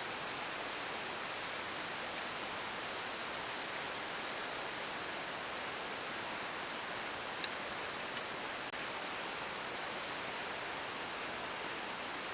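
Steady, even hiss of background noise with no distinct event, broken only by a faint tick or two about seven to eight seconds in.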